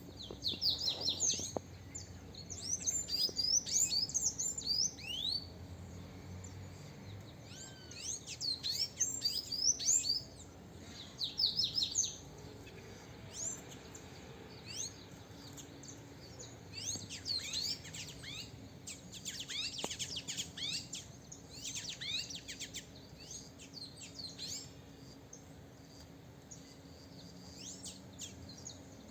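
Sanhaço tanagers singing in bouts of rapid, high squeaky notes with short pauses between, loudest in the first third. A caged male is answering a wild pair, a territorial challenge that has him eager to fight.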